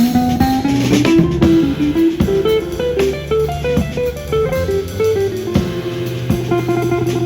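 Guitar music: a melody of single sustained notes stepping up and down over a steady low note, with a few sharp hits.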